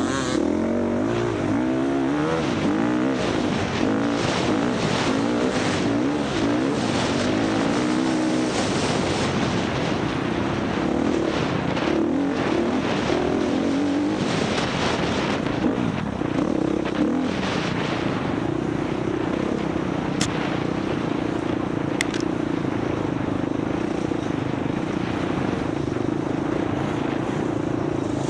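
Four-stroke dirt bike engine being ridden hard off-road, its revs rising and falling over and over through the first half, then holding a steadier pitch, under rushing wind and terrain noise. Two short sharp ticks come near the end.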